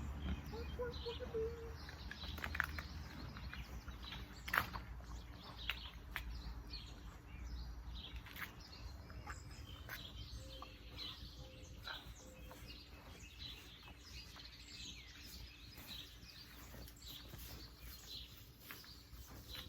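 Small birds chirping and calling over and over, with scattered knocks and rustling; a sharp knock comes about four and a half seconds in.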